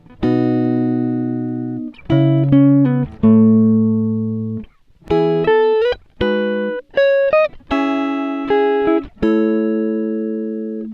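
Background music: plucked string chords, each struck and left to ring and fade over a second or two, with short breaks between them.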